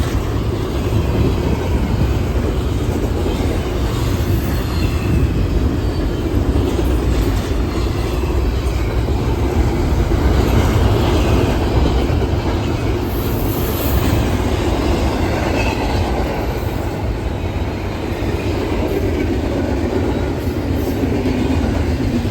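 A train rolling past: the steady rumble of the railcars on the rails, with wheels clacking over rail joints and occasional high wheel squeal.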